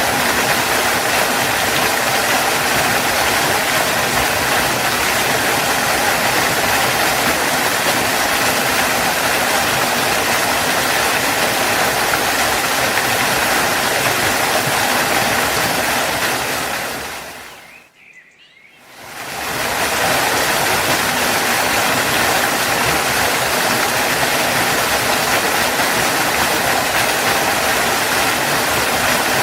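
Waterfall, a steady rush of falling water. About two thirds of the way through it fades out, dips almost to silence for about a second, and fades back in.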